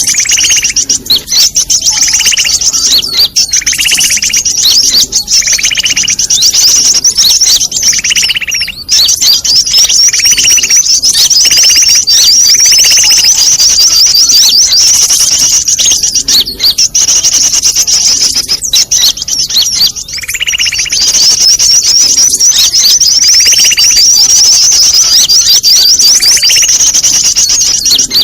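Bird-lure recording of many small songbirds calling together: dense, loud, high-pitched chattering and trilling, with a lower, shorter call repeating about once a second or so. It is a 'noisy' lure mix played to draw birds in for trapping.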